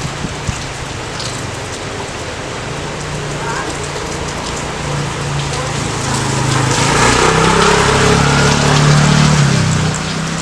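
Steady rain falling. A low droning hum swells in from about halfway through, grows louder, then fades near the end.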